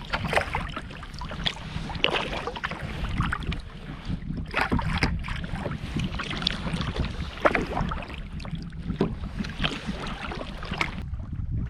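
Kayak paddle dipping and splashing in the water with each stroke, about every second or two, over steady wind noise on the microphone.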